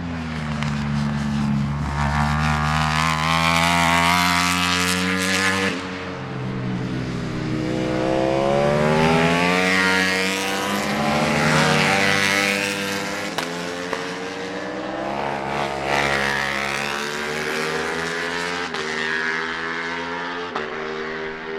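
Ducati Panigale V4 superbikes racing past at high revs. The engine pitch climbs through the gears and falls away as the bikes go by, swelling loudest twice, with a sudden drop about six seconds in.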